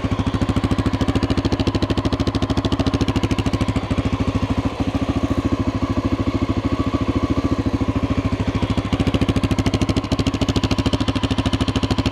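1988 Honda NX650's air-cooled single-cylinder four-stroke engine idling steadily, still warming up from a cold start on half choke. Even, unbroken firing pulses with no rise or fall in speed.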